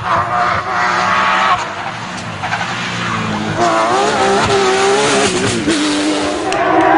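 Porsche 911 GT3 rally car's flat-six engine revving up and dropping back repeatedly as it changes gear, with tyres skidding on the stage. It gets louder near the end.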